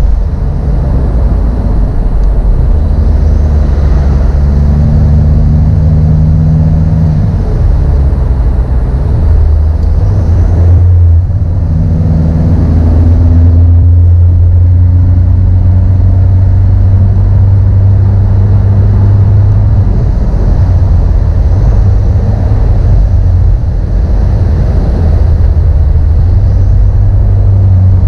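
Car engine running under way with road noise, a loud steady low drone. The revs shift up and down a few times in the first half, then hold steady.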